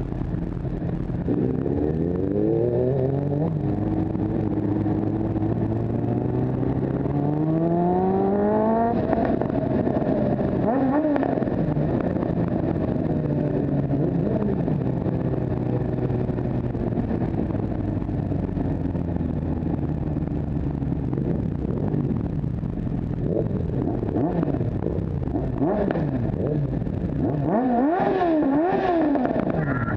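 Motorcycle engine heard while riding. Its pitch climbs over the first several seconds as it accelerates, then it runs steadily, and near the end the revs rise and fall quickly several times.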